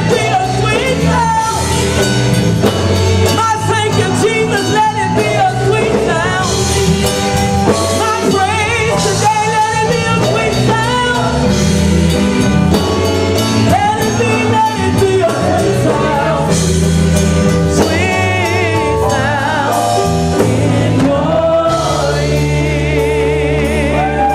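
Gospel praise song: a lead singer and group voices with band accompaniment of bass and drums, singing with vibrato on held notes. The sound cuts off right at the end.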